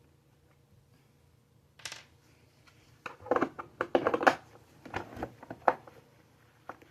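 Hard plastic parts being handled: a short scrape, then a quick run of clattering knocks and clicks, and one more click near the end. The vacuum motor is not running.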